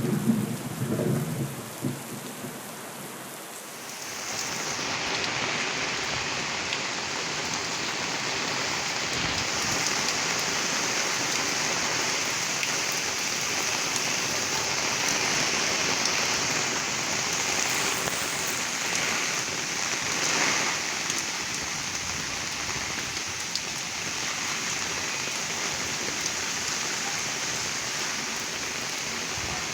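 Heavy rain pouring steadily as a dense hiss. In the first few seconds a low rumble of thunder dies away, and about four seconds in the rain comes up louder and stays even.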